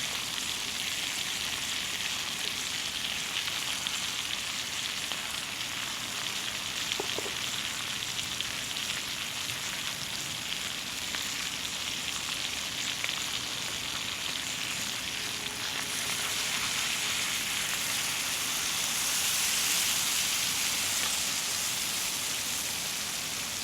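Salmon frying in butter in a pan: a steady sizzle that swells a little louder about two-thirds of the way through.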